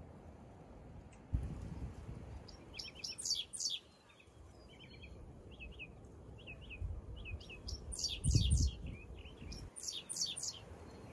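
Songbirds singing outdoors: several short, high trilling phrases of rapidly repeated notes at intervals, over a low rumble.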